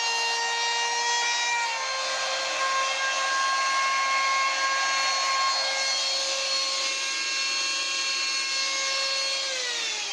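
Router cutting hinge recesses into a wooden door edge with a hinge jig: a steady high whine over a rasp of cutting wood. The pitch steps up slightly about two seconds in, and near the end the motor is switched off and spins down with a falling whine.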